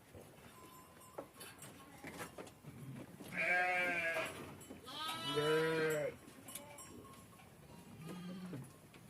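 Herd animals bleating: two long wavering bleats about three and five seconds in, and a shorter, fainter one near the end.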